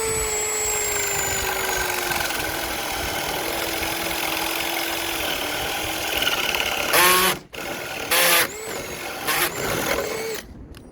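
Baur 20-volt cordless drill running at high speed with a spade bit boring into wood. The motor's whine sags slowly in pitch as the bit loads up, then comes two loud harsh bursts about seven and eight seconds in and a few short spin-ups before it stops. The spade bit tends to loosen in the chuck at this very high speed.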